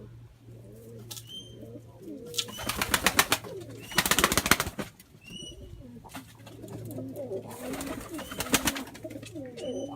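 Pet doves cooing, with three short bursts of rapid wing-flapping about two and a half, four and eight seconds in, as the doves chase one another.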